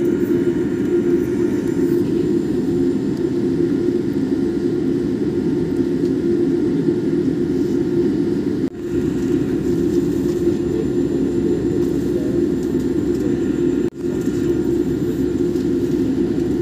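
Boeing 787 jet engines heard inside the cabin during takeoff: a steady low rumble that drops out for an instant twice.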